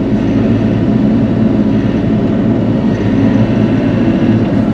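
Bobcat E42 mini excavator's diesel engine running steadily under work.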